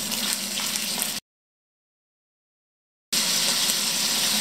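Scallops sizzling in hot olive oil in a frying pan: a steady hiss that drops to dead silence for about two seconds around the middle, then comes back a little louder.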